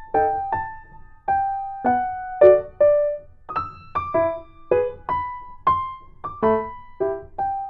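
Background music: a simple piano melody of single struck notes, about two a second, each ringing out briefly.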